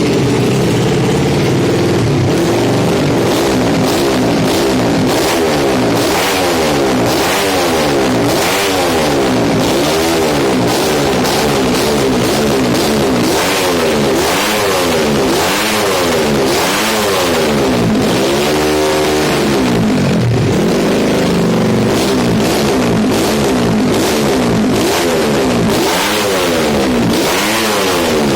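Modified Yamaha Jupiter Z underbone motorcycle's four-stroke engine, bored out to 130cc, running fairly steady for a couple of seconds, then revved in repeated blips, its note rising and falling about once every second and a half.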